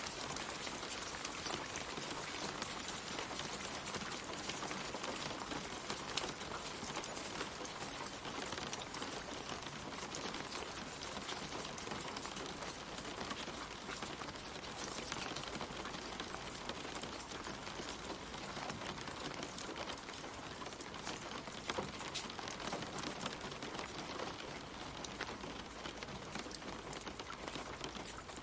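Steady light rain, many small drops pattering on leaves and wet ground.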